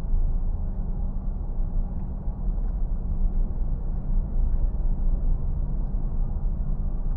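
Steady low rumble of a car towing a caravan at highway speed, heard from inside the cabin.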